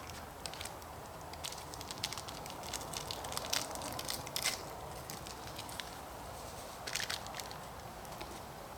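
Campfire crackling, with irregular sharp pops and snaps over a steady low hiss of burning wood.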